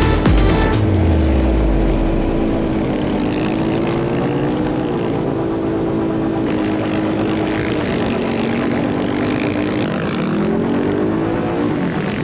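Off-road vehicle engine running, its pitch rising and falling with the throttle, with a quick rev-up near the end. Electronic music cuts off just under a second in.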